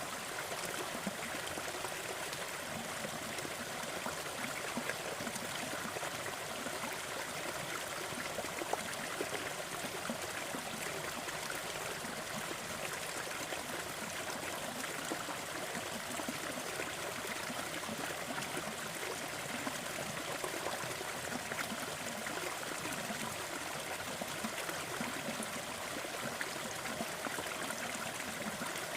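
Small forest waterfall and stream splashing and trickling over rocks, a steady, even rush of water.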